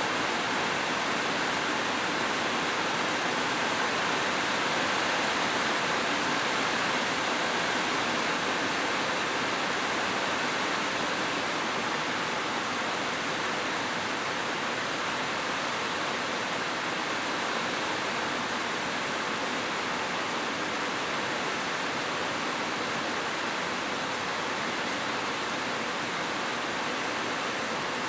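Heavy rain falling steadily: an even, unbroken hiss with no single drops standing out.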